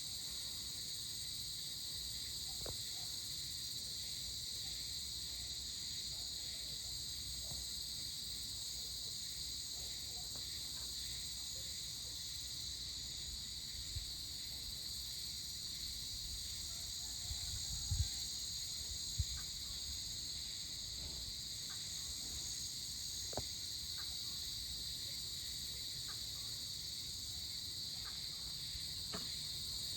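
Steady chorus of night insects after sunset, a continuous high-pitched shrill, with a couple of brief low thuds a little past the middle.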